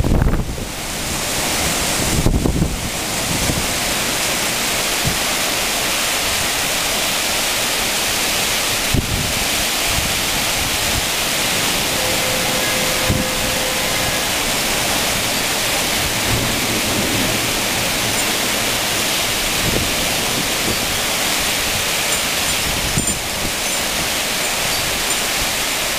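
Heavy rain pouring down in a steady, dense hiss. A brief gust of wind buffets the microphone about two seconds in.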